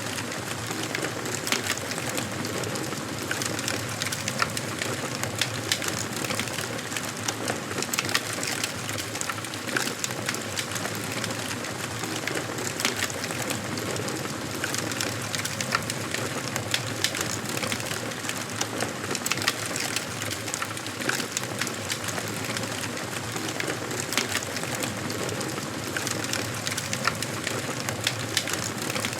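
Wood fire burning in a fireplace: a steady hiss with frequent, irregular sharp crackles and pops of the burning wood.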